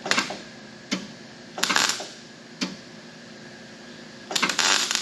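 Wire-feed (MIG) welder crackling in several short bursts while plug-welding a steel patch panel through drilled holes. Two of the bursts last about half a second; the rest are brief blips.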